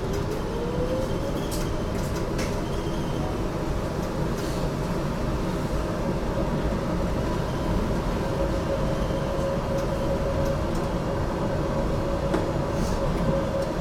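HTM GTL8 articulated tram running, heard from inside: a steady rumble of wheels on rail with a motor whine that rises in pitch over the first second or so as the tram picks up speed, then holds steady. A few sharp clicks come through.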